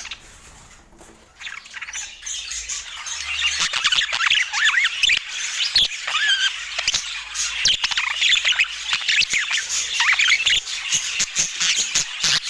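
Budgerigars chattering, a dense stream of short chirps and squawks, quiet for the first second or so and then busy throughout.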